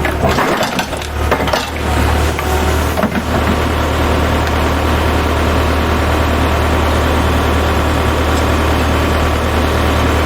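Engine of heavy machinery running steadily with a low drone. There are a few knocks and clatters in the first three seconds.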